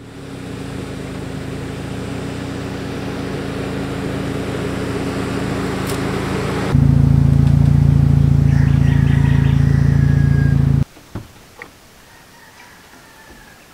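Car engine running, growing steadily louder, then louder and steady from about seven seconds in, and cutting off suddenly near eleven seconds. A couple of light clicks follow.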